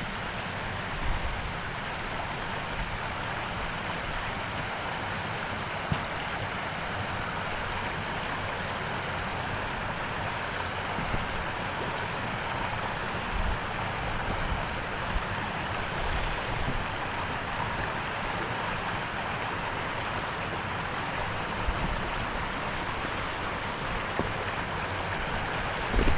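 Rushing water of a fast burn tumbling between boulders at the top of a waterfall: a steady, even rush. A few brief low thumps, typical of wind or handling on the microphone, stand out over it.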